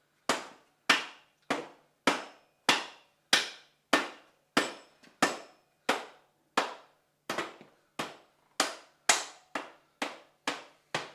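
Hammer blows on metal, about eighteen evenly spaced strikes, roughly one and a half a second, each with a short metallic ring.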